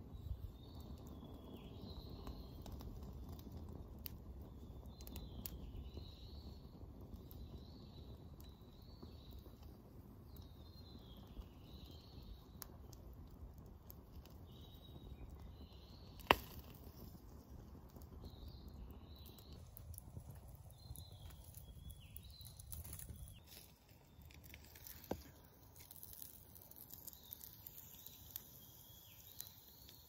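A forest bird singing the same short warbling phrase over and over, about once every second or two, over the soft crackle of a small wood campfire, with sharp pops from the fire, the loudest about halfway through.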